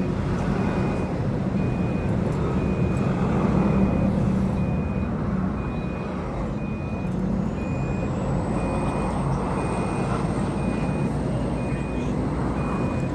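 Steady low motor hum with a short electronic beep repeating evenly, about one every three-quarters of a second, and a faint high whine that rises about seven seconds in and then holds.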